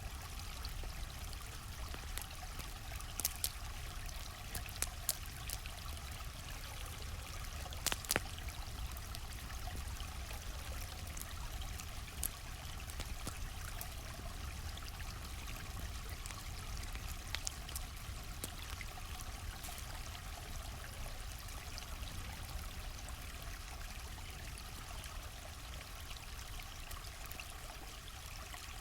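A stream flowing steadily with a low rumble, under the sharp, scattered crackles and pops of a wood campfire. The loudest pops come about three, five and eight seconds in.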